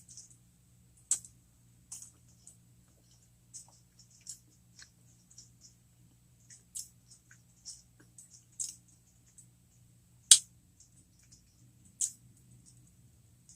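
Close-miked chewing of breaded jalapeño poppers: irregular crisp crunches and wet mouth clicks, with one sharp crunch about ten seconds in.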